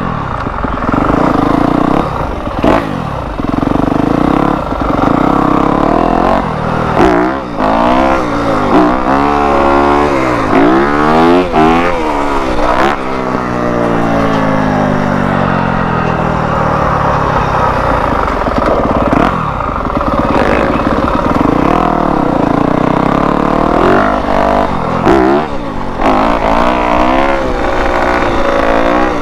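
Yamaha YZ250F four-stroke single-cylinder dirt bike engine being ridden and revved, its pitch rising and falling over and over. Around the middle come several quick rev sweeps, then a long drop in pitch.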